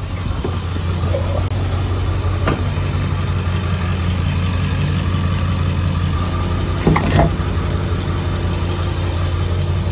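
Diesel truck engine running with a steady low drone. A short knock comes about two and a half seconds in, and a louder double thump around seven seconds.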